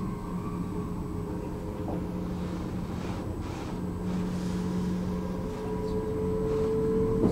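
Electric commuter train running: a steady low rumble with a humming whine that rises slightly in pitch and grows louder near the end.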